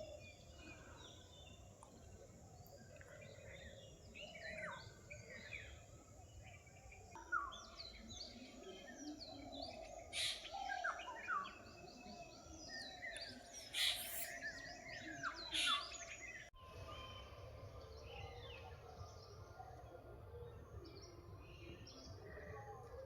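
Forest birds calling at dawn: many overlapping short chirps and whistles from several birds, with a few louder calls in the middle.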